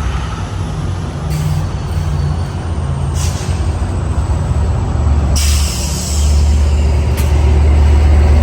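Two F59PHI diesel-electric locomotives with EMD 710 engines running under power as the train pulls away. A deep engine drone builds up about halfway through, with several short bursts of hiss on top.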